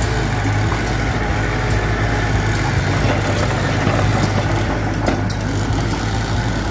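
Mitsubishi BD2F bulldozer's diesel engine running steadily under load.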